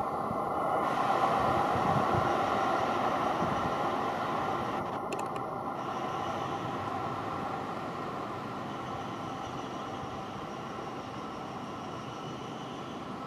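Seibu 6000 series electric commuter train running into a station, a steady rumble of wheels and running gear with a hum from its motors, loudest about two seconds in and slowly fading as it slows to stop.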